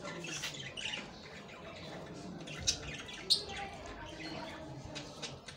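Birds calling, with short sharp chirps and squawks, two of them standing out a little before the middle.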